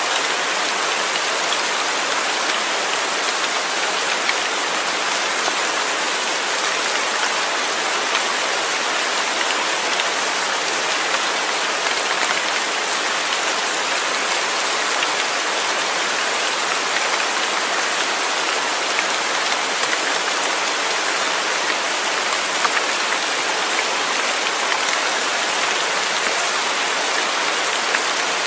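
Steady rain falling, an even hiss with fine patter of drops, unchanging throughout.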